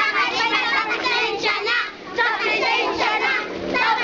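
A group of children singing together, many high voices at once, with a short break about two seconds in.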